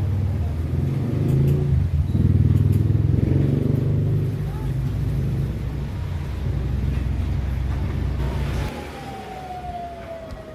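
Exhaust fan motor running with a steady low hum, then switched off about nine seconds in, leaving a falling whine as it spins down.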